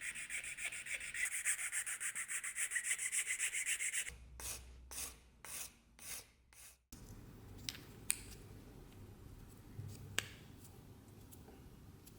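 Hand rubbing strokes of an abrasive on a hard surface during restoration work: fast, even back-and-forth strokes for about four seconds, then five slower separate strokes. After that it is quieter, with a few light clicks.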